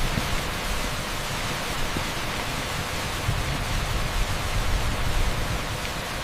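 Torrential rain pouring onto an asphalt street, a dense steady hiss with a low rumble underneath.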